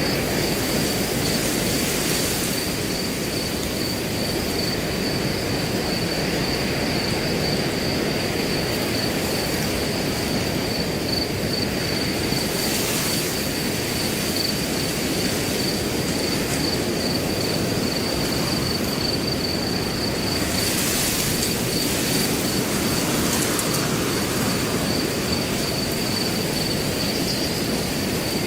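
Wind blowing through grass, a steady rush that swells briefly a few times, with crickets trilling continuously at one high pitch.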